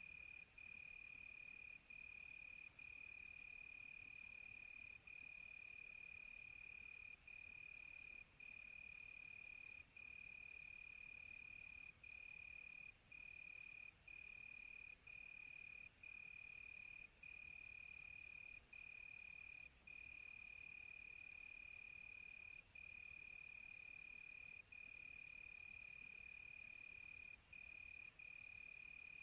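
Crickets chirping at night: one steady, high continuous trill broken by brief gaps every second or so, over a fainter high hiss of more insects.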